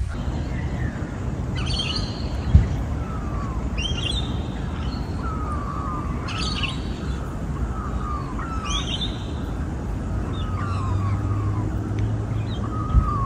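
Birds calling over and over, a call about every two seconds, each with falling whistled notes and a harsher higher part, over a steady low rumble. A sharp thump sounds about two and a half seconds in and again near the end.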